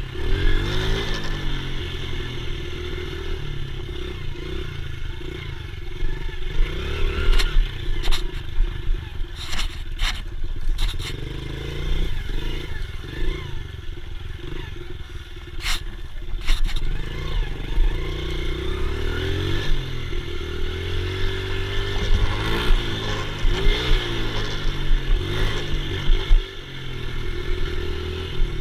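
Dirt bike engine running and revving up and down repeatedly as the bike is ridden, with a few sharp knocks and some clattering.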